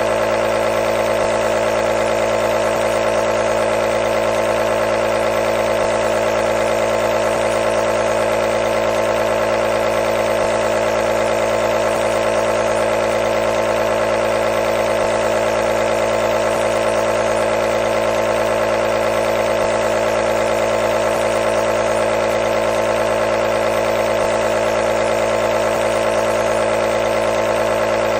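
Compressor nebulizer running: a steady, unchanging motor hum with a strong buzzing tone.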